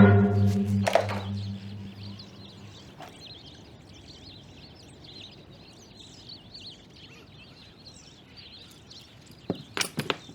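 A low musical drone fades out over the first couple of seconds, leaving quiet outdoor background with birds chirping. A few sharp knocks come near the end.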